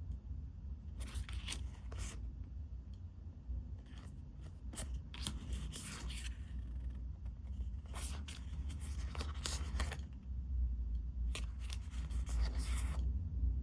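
Packaging and paper being handled and unwrapped: irregular bursts of rustling, crinkling and tearing, over a low steady rumble.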